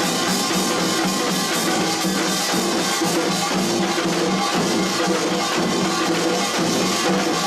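Korean pungmul percussion ensemble playing a fast, dense, steady beat, with drum strokes under the ringing of metal gongs.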